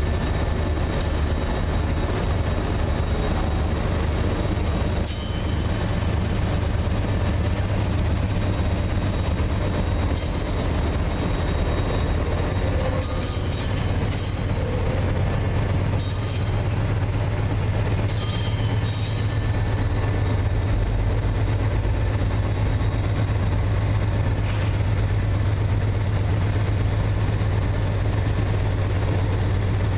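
Diesel freight locomotives running with a loud, steady low drone, with brief high squeals several times, around five, ten, thirteen to nineteen and twenty-four seconds in.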